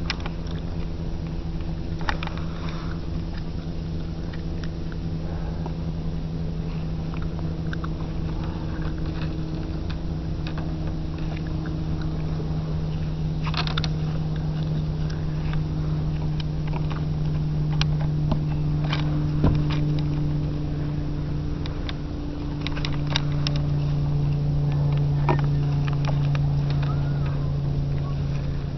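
A motor or engine runs steadily with a low hum, its pitch dropping slightly about three-quarters of the way through, with a few sharp clicks and knocks scattered over it.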